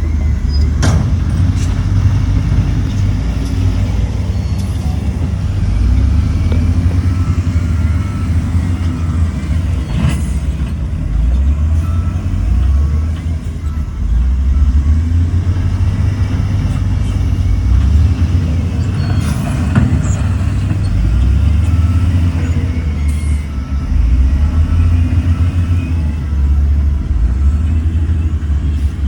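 Heavy diesel engine of earthmoving machinery running under load, swelling and easing in strength, with a few sharp knocks.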